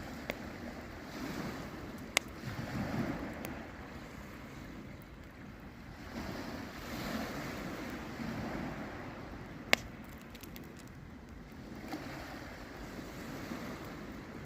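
Campfire crackling, with a few sharp pops, the loudest about two seconds in and near ten seconds in, over a rushing noise that swells and fades every few seconds.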